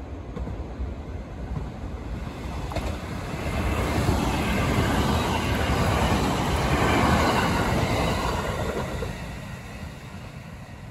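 Hapi-Line Fukui 521 series electric multiple unit passing close by without stopping. The rumble of its wheels on the rails swells about three seconds in, is loudest around the middle, and fades as the train pulls away.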